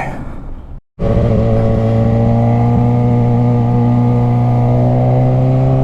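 Motorcycle engine running under way at steady revs that creep slowly upward. It starts abruptly after a moment of silence about a second in.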